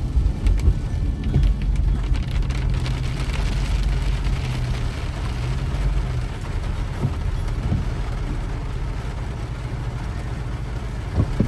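Inside a moving car: steady engine and road rumble with the hiss of tyres on wet pavement, and scattered light ticks of rain on the car.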